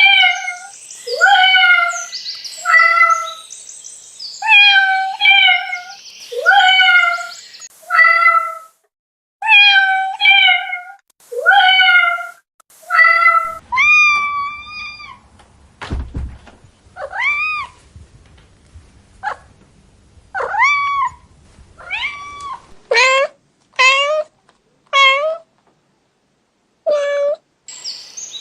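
Domestic cat meowing over and over, a steady run of similar meows for about half the time. After a soft thud, a higher-pitched, arching set of meows follows, coming faster toward the end.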